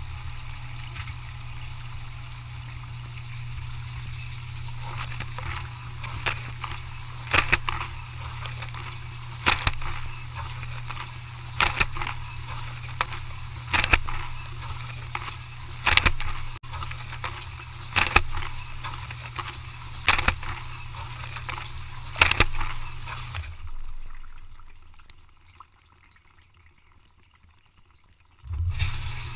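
Dishwasher running its wash cycle: a steady low pump hum with water spraying inside the tub, and a sharp splash about every two seconds. About 24 seconds in the pump winds down and the machine falls almost silent, then it starts up again near the end.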